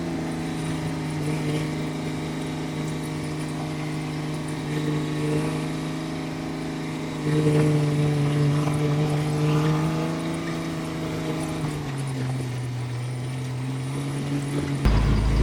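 Diesel engine of an old 6x6 truck running while driving, pulling harder and louder about seven seconds in and easing off again about five seconds later. A heavy low rumble comes in suddenly just before the end.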